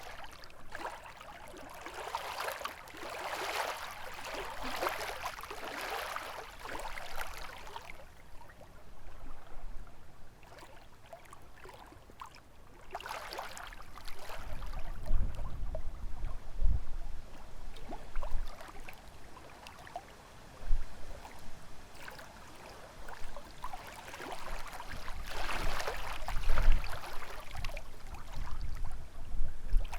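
Small lake waves lapping and splashing against the shore in uneven washes every several seconds, with gusts of wind rumbling low on the microphone.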